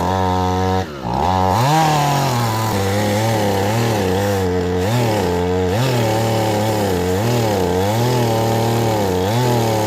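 Husqvarna 450 two-stroke chainsaw cutting through oak, its engine pitch sagging and recovering in waves under load: the saw is struggling with the hardwood. About a second in the engine briefly bogs and drops, then picks back up.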